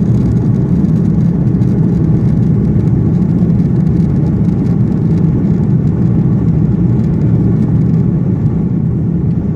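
Steady low rumble of engine and airflow noise inside the cabin of an Airbus A330-300 airliner during its landing.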